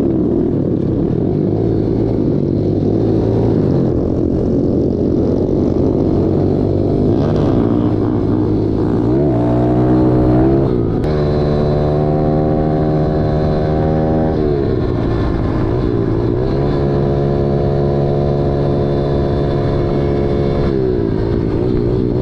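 Small single-cylinder pit bike engine running under way, its pitch climbing and holding steady for a few seconds before dropping back, twice in the second half.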